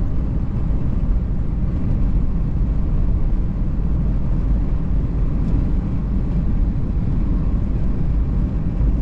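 Steady low road rumble inside a moving car's cabin, tyre and engine noise with no distinct events.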